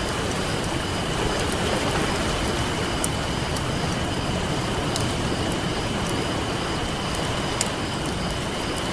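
Campfire crackling, with scattered sharp pops over a steady rushing wash of ocean surf.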